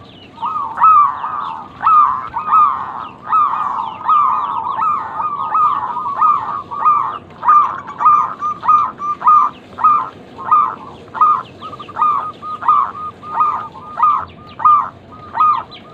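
Zebra doves (perkutut) calling, a run of short, high staccato coos repeated fast. The notes crowd together and overlap at first, then settle into a regular beat of about three notes every two seconds.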